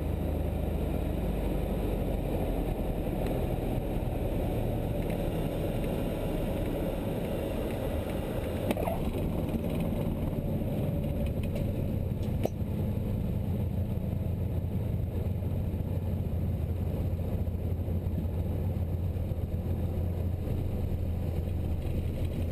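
Cessna 172's piston engine and propeller running steadily at low power, heard from inside the cockpit. Two brief clicks stand out, about nine and twelve and a half seconds in.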